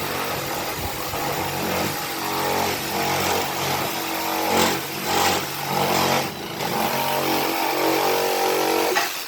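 Handheld power tool running under load, its motor pitch wavering, then stopping abruptly at the end.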